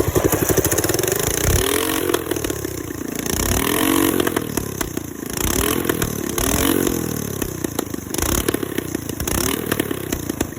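Mini bike's small engine running and being revved, its pitch rising and falling back again about six or seven times.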